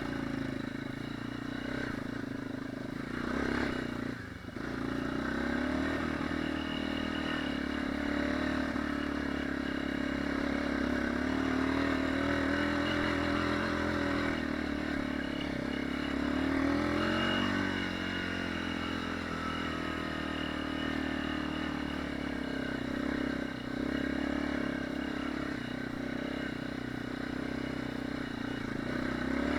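Enduro dirt bike engine running while riding, its pitch rising and falling with the throttle, with a brief dip about four seconds in.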